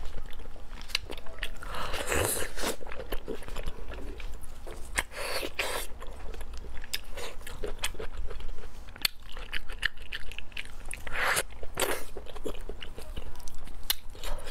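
Close-miked eating of a slab of braised pork belly: biting and chewing, a run of small sharp mouth clicks with a louder chewing sound every few seconds.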